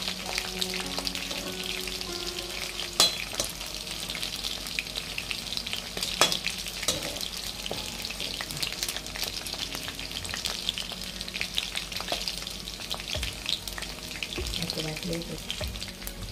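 Green chillies and a few dried red chillies sizzling and crackling in hot oil in a kadai, stirred with a perforated steel skimmer. The skimmer gives a couple of sharp clinks against the pan, a few seconds and about six seconds in.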